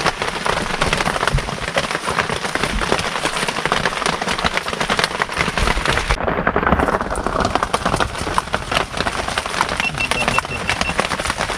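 Steady heavy rain, a dense patter of many drops.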